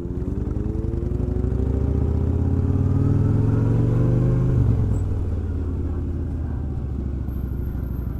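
Motorcycle engine accelerating: its pitch climbs for about four seconds, drops sharply about four and a half seconds in, then holds steady.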